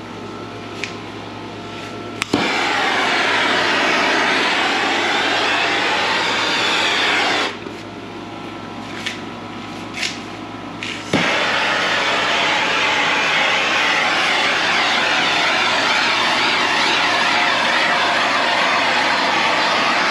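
A loud rushing noise in two long bursts, each switched on and off abruptly, over a steady machine hum with a few clicks between the bursts.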